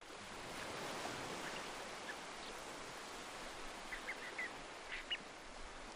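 Steady wash of surf on a beach with faint, short shorebird calls, a few coming in a quick cluster about four to five seconds in.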